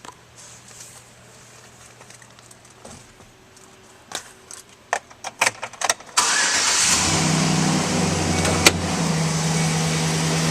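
The 2012 Chevrolet Silverado 1500's 4.8-litre V8 is started after a few clicks, catching about six seconds in and settling into a steady idle.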